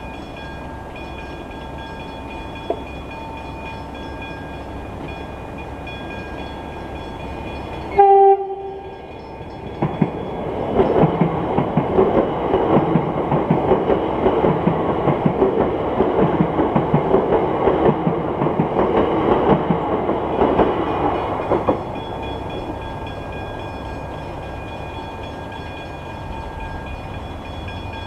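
Level crossing's Westinghouse hybrid electronic bells ringing steadily. About eight seconds in, an electric suburban train sounds one short two-tone horn blast. It then passes over the crossing for about twelve seconds, its wheels clattering, and the bells ring on once it has gone.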